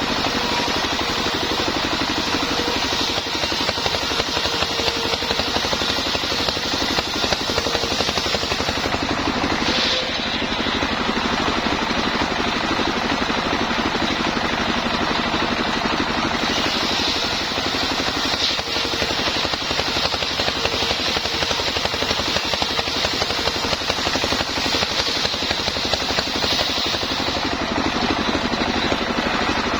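Home-built sawmill running steadily, its engine and saw machinery droning without a break, the sound growing brighter and harsher in two long stretches.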